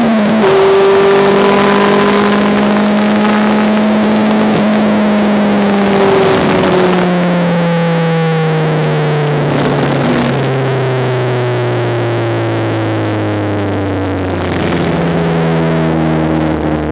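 Honda Civic race car's engine heard from on board, its pitch dropping sharply at the start and then holding for a few seconds. After that it slowly falls for most of the rest, with a further drop near the end.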